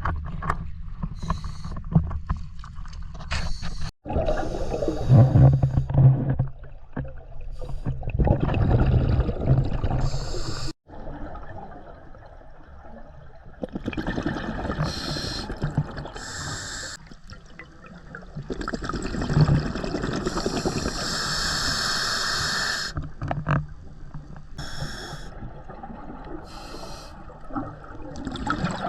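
Scuba diver breathing through a regulator underwater: a low groaning inhale, then bursts of exhaled bubbles rushing past the camera every few seconds.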